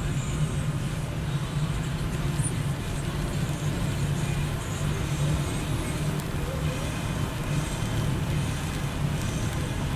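Car driving along a highway: a steady low drone of engine and tyres on the road.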